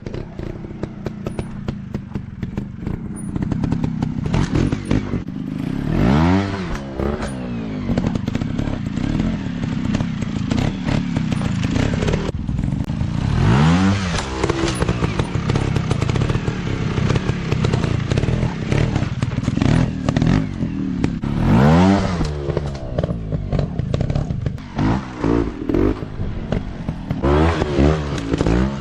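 Small dirt bike engines running, with the throttle opened into a sharp rev that rises and falls about four times. Clattering knocks run over the engine note.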